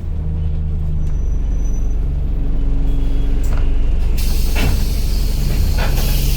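Single-deck bus's diesel engine running with a steady low drone; about four seconds in, a loud hiss of compressed air from the bus's air system starts and carries on, with a few sharp clicks.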